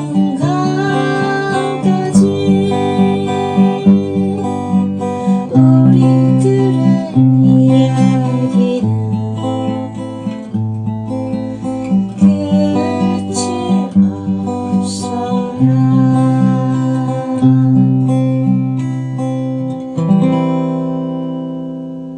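Acoustic guitar strummed through a run of closing chords. The last chord rings out and fades near the end.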